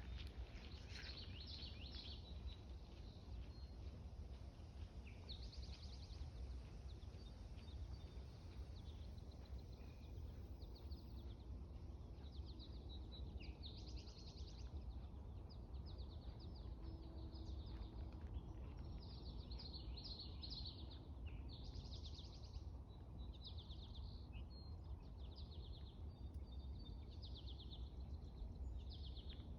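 Birds calling, with short, fast trills repeated every second or two over a low steady rumble.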